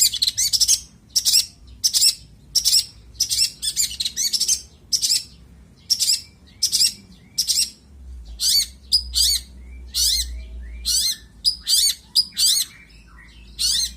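Long-tailed shrike singing: a run of short, sharp high notes, about one or two a second, with softer phrases between them; its song is rich in mimicked notes from other birds.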